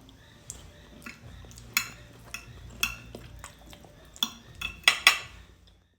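Metal cutlery clinking and scraping against a plate of pilau, about seven sharp ringing clinks, the loudest two close together near the end.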